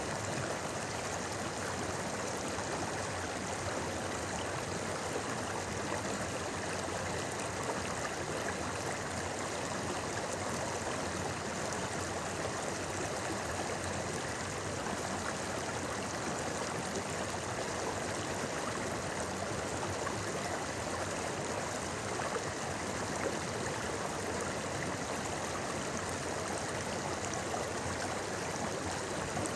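A river's shallow stream burbling over stones, a steady rushing water sound that stays even throughout.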